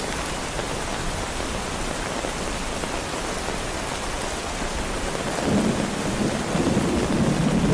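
Heavy rain falling steadily, with a low rumble of thunder rolling in about five seconds in.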